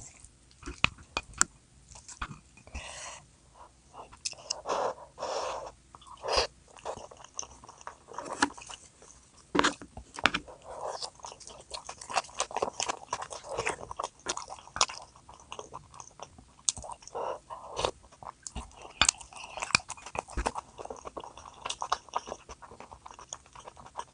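A person eating: chewing and biting, with irregular sharp crunches and clicks.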